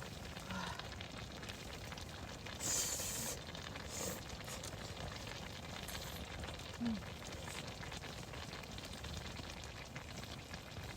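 Steady low crackling sizzle of the pork kimchi dish simmering in a pan on a camp stove, with a brief hiss about three seconds in.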